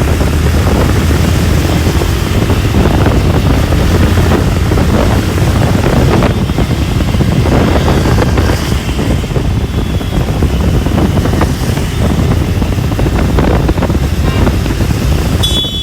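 Wind buffeting the microphone over the steady running of a motorcycle and its road noise while riding.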